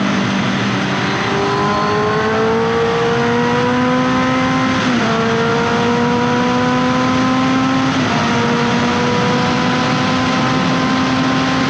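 Honda CBR650F's 649 cc inline-four engine, through an SC-Project aftermarket exhaust, pulling under acceleration with a steadily rising pitch. The pitch drops sharply about five seconds in and again about eight seconds in as the rider shifts up, then climbs again.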